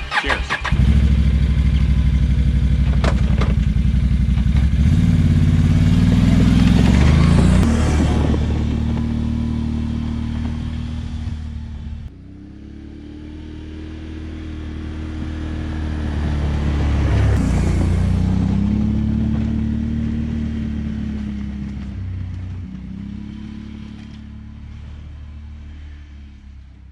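ATV engine running under way: it starts about a second in and climbs in pitch. It drops suddenly about halfway, builds again, then fades toward the end.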